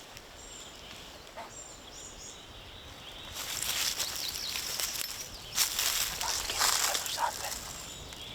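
Footsteps crunching through dry leaf litter, starting about three seconds in and running for about four seconds. A few small, high bird chirps come in the quieter opening.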